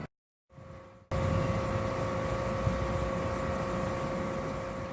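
Steady engine-like drone with a steady whine over it, starting abruptly about a second in after a brief silence.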